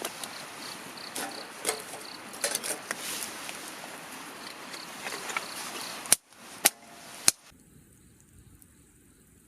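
Outdoor ambience: an insect chirping in a quick, even, high-pitched pulse over a steady hiss, with scattered light clicks. Three sharp knocks come about six to seven seconds in, then the sound drops suddenly to a faint hush.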